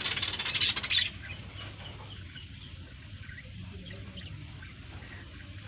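Birds chirping and chattering: a dense burst of high chirps for about the first second, then scattered quieter chirps, over a low steady hum.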